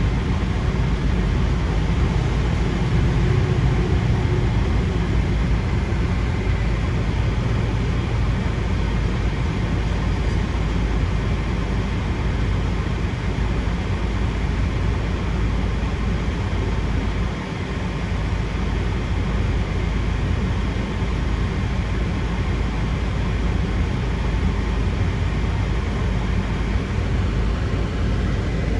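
Steady low rumble and hiss of background noise inside a car cabin.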